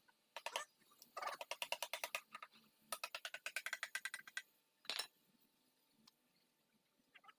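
Ratchet mechanism clicking rapidly, about ten clicks a second, in two runs of roughly a second and a half each, with a few single sharp clicks before and after.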